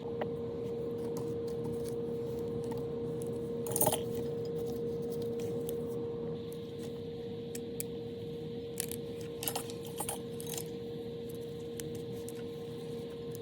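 Small metal parts clinking and tapping a few times, once about four seconds in and in a quick cluster after about nine seconds, over a steady hum.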